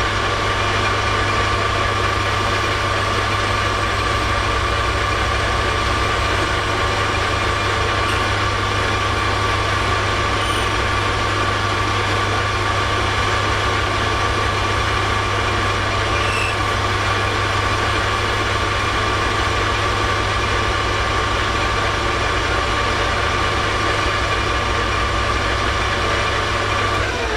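Metal lathe running steadily through a plunge cut, a constant low hum with a steady whine above it. It shuts off near the end.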